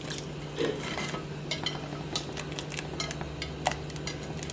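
Irregular clinks and knocks of a utensil against a cooking pot as vegetables are added and stirred into the soup pot, over a steady low hum.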